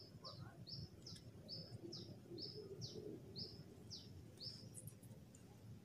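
A small bird singing a steady series of short, high notes, some sliding downward, about two or three a second, stopping near the end. Low wind rumble on the microphone underneath.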